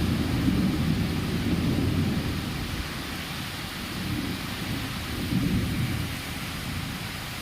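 Thunderstorm: a low rumble of thunder dies away, then swells again briefly about five seconds in, over the steady hiss of rain.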